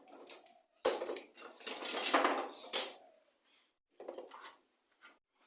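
Small metal parts and tools clinking and clattering as they are handled: a sharp clank about a second in, about two seconds of rattling, then a few lighter knocks near the end.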